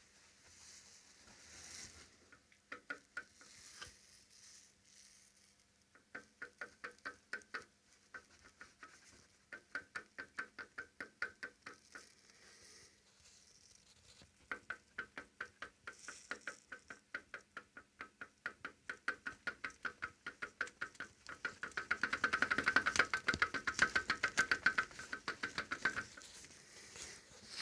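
Worn inner CV joint on a Mitsubishi Lancer X driveshaft knocking: runs of rapid, evenly spaced clicks, several a second, coming in bursts of a few seconds and loudest near the end. The knock is the sign of wear in the inner joint.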